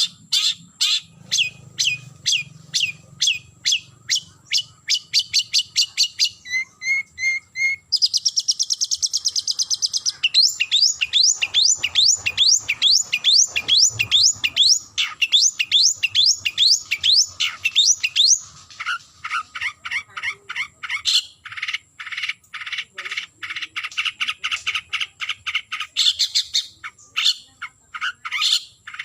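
Long-tailed shrike (cendet) calling in fast series of short, harsh repeated notes, with a brief buzzing rattle about eight seconds in followed by quick upward-sweeping notes. It is the call a cendet gives to challenge a rival.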